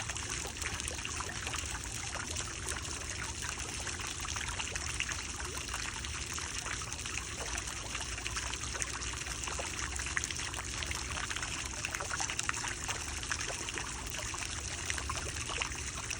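Water trickling steadily, a constant babble of many small splashes and drips like a small stream running over stones.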